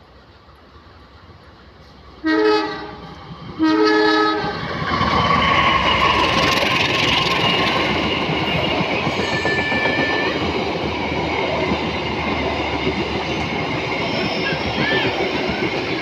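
Train horn sounding two short blasts, then the train passing close by: a loud, steady rumble of wheels on rail with some high wheel squeal.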